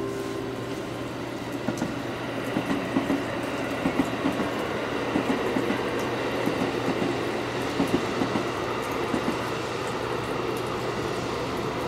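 Electric passenger train running along the tracks, its wheels clacking over rail joints in an irregular string of sharp clicks from about two seconds in, over a steady rumble.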